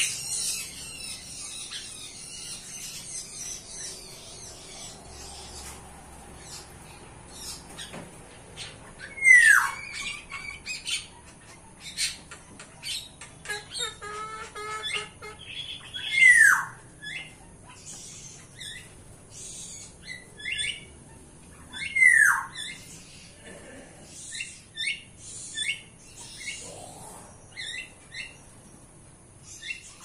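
Several birds calling: a loud call that slides steeply downward in pitch, repeated about every six to seven seconds, among many short, high chirps and squawks. A burst of rapid high chattering opens the stretch.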